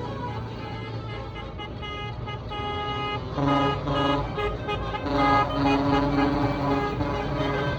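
Tractor engines running with a steady low hum while a tune of changing pitched notes plays over them, from a passing decorated tractor.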